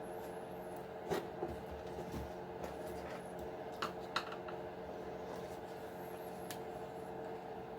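A few light clicks and taps from small RC truck parts being handled, over a steady hum.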